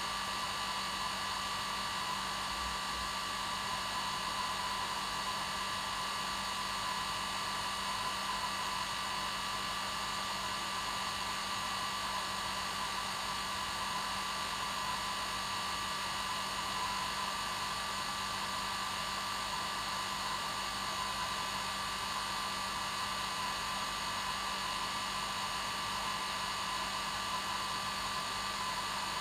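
Hair dryer running steadily on one setting: an even rush of air with a constant motor hum and whine, unchanging throughout.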